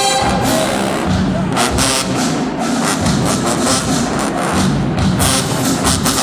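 Marching band drumline playing a percussion feature of repeated drum hits, the brass silent, over crowd noise.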